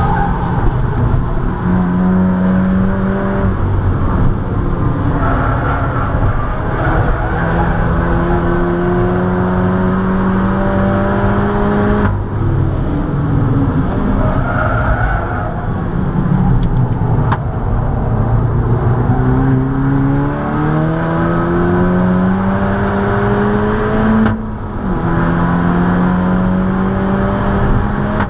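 Seat Leon Cupra 280's turbocharged 2.0-litre four-cylinder heard from inside the cabin at full-throttle track speed, its pitch climbing steadily as it pulls and falling back sharply twice, about halfway through and near the end, over a constant rumble of tyre and road noise.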